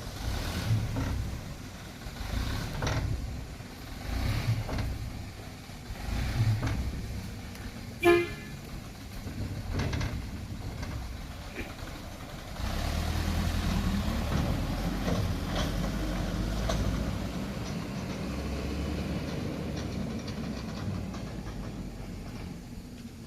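Dump truck's diesel engine running, swelling and easing off every couple of seconds, with one short horn toot about eight seconds in. From about halfway through, the engine runs steadier and louder.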